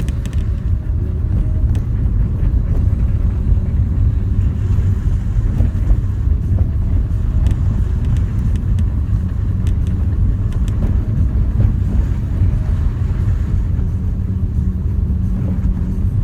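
Renault Duster 4x4 driving, a steady low rumble of engine and tyres, with a few light clicks.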